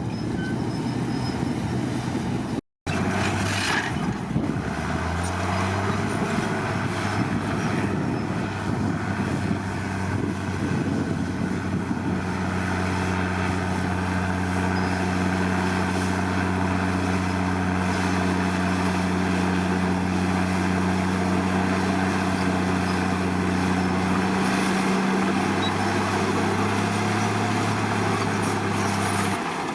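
Komatsu D53 crawler bulldozer's diesel engine running under load. It revs up about five seconds in and holds steady, sags briefly about 25 seconds in, then picks up again. A split-second cut to silence falls about three seconds in.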